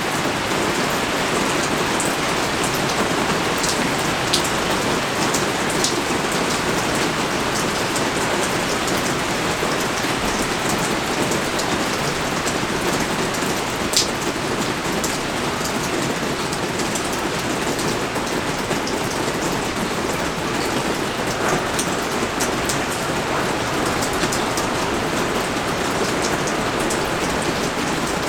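Steady rain falling, an even dense hiss with scattered sharp drips tapping close by, the loudest about fourteen seconds in.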